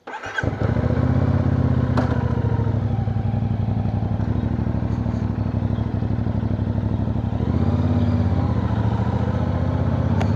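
CFMoto 450NK motorcycle's parallel-twin engine running at low, steady revs; it comes in abruptly at the start and holds an even pitch throughout.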